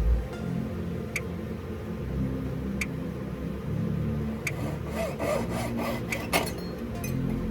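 A jeweller's hand tool worked back and forth against metal at the bench, giving a rasping rub, with a few light clicks.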